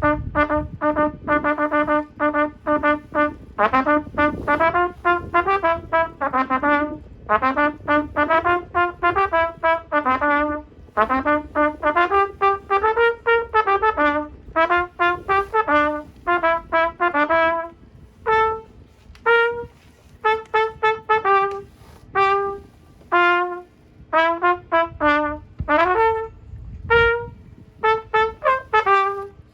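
Solo trumpet playing a melody in short notes and phrases, with brief pauses between phrases.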